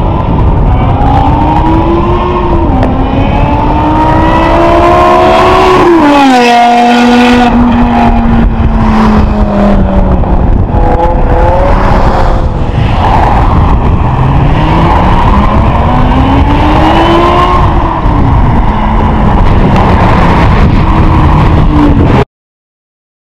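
BMW E60 M5's V10 running through a Kreissieg valved exhaust, revving hard with its pitch climbing, dropping sharply about six seconds in, then climbing and falling again later. The sound cuts off abruptly near the end.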